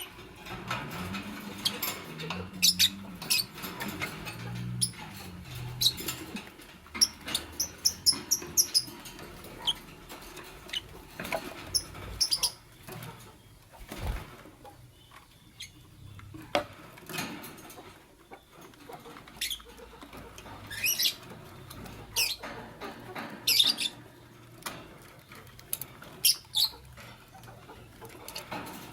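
Fischer's lovebirds giving short, sharp, high-pitched chirps and squeaks at irregular intervals. A low drone sounds under them for the first few seconds.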